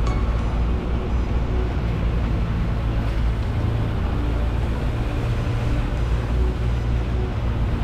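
Boat engine running steadily, a low drone with rushing noise over it.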